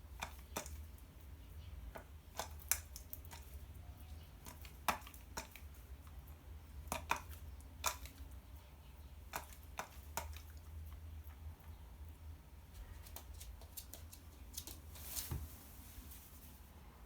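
Irregular sharp taps and clicks of a bird's beak pecking at dry cat food, over a steady low hum.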